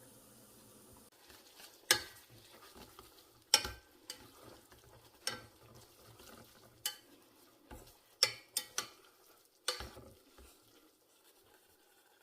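Kitchen clatter: about ten sharp, irregular clinks and knocks of utensils against dishes and pots while cooking.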